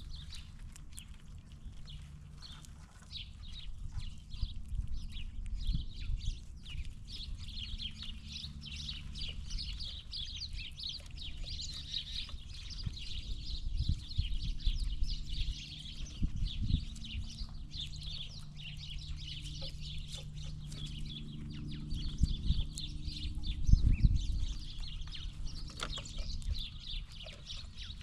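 Birds chirping and chattering continuously, over a low steady rumble, with a few knocks, the loudest about 24 seconds in.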